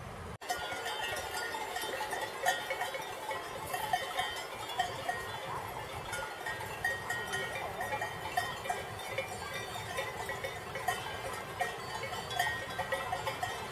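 Many small livestock bells clanking irregularly, as worn by a flock of sheep moving about, with overlapping clinks of different pitches. The bells start after a brief break about half a second in.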